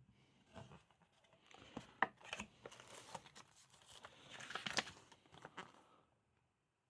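Packaging being handled and opened: faint, irregular crinkling and tearing with a few sharp small clicks.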